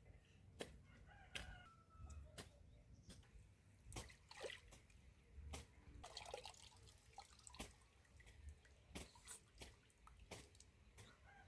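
Faint, scattered drops of rainwater dripping and tapping, a dozen or so at uneven intervals. A chicken calls faintly about one to two seconds in.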